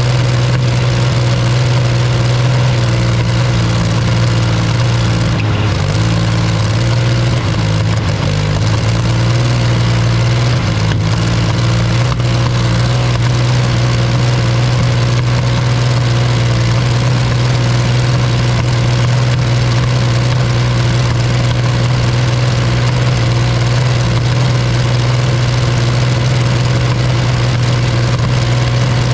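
Rolls-Royce Meteor V12 tank engine running loud and steady at idle on a test stand, its deep note wavering a little for a few seconds before settling.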